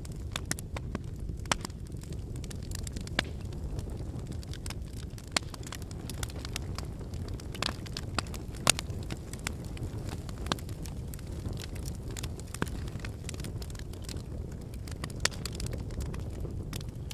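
Wood campfire burning: a steady low rumble of flames under frequent irregular crackles and pops of firewood, a handful of them sharper and louder.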